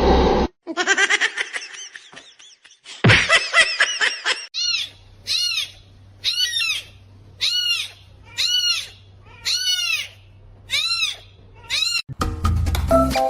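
An animal calling over and over: two longer calls, then a run of about eight short calls, each rising and falling in pitch, over a low hum. Music starts near the end.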